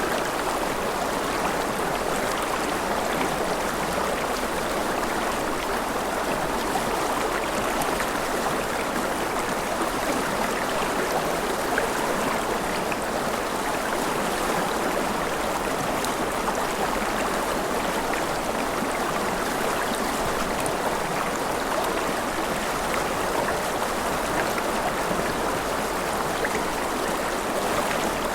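Forest river flowing steadily, a continuous rush of running water with no change in level.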